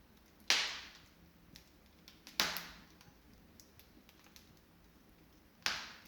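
Wood fire burning in an open fireplace, crackling with faint small ticks and three loud sharp pops: one about half a second in, one about two and a half seconds in, and one near the end, each dying away quickly.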